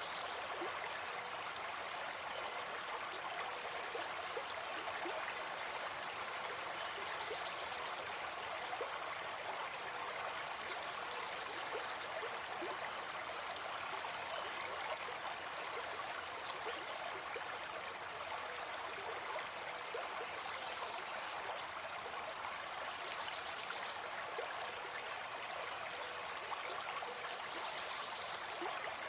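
Gentle forest stream flowing, a steady, even rush of water that does not change.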